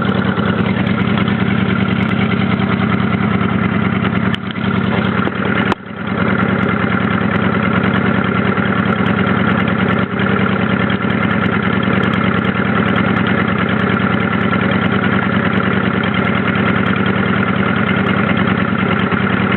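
Honda Shadow 600's V-twin engine running at a steady, unchanging pitch, with two short drops in level about four and a half and six seconds in.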